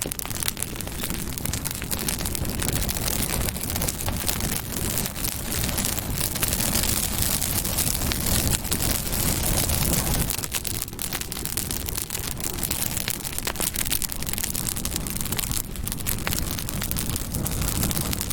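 Campfire burning: dense small crackles and pops over a steady rushing noise.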